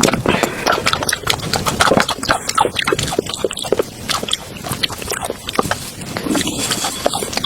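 Close-miked eating sounds: wet chewing, lip smacks and mouth clicks at an irregular pace.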